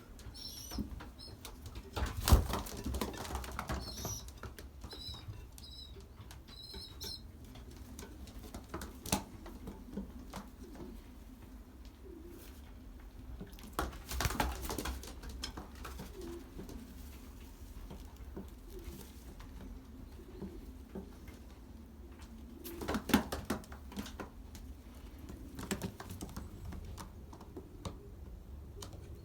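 Young racing pigeons about 30 days old moving about a loft, with loud flurries of wing flapping about two seconds in, at the middle and near the end, and soft cooing between them. Short high peeps come repeatedly during the first several seconds.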